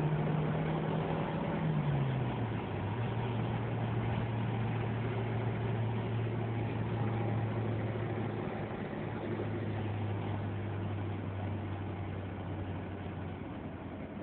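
Stock Renault Clio 1.2 four-cylinder petrol engine running hard, heard from inside the cabin over road noise. Its note drops in pitch about two seconds in, then holds steady, growing slightly quieter near the end.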